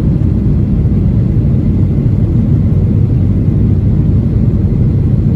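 Jet airliner taking off, a loud, steady low rumble with no change in level.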